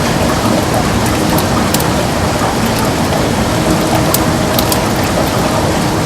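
Heavy rain falling steadily on a window: a dense, even hiss with scattered sharp ticks of individual drops.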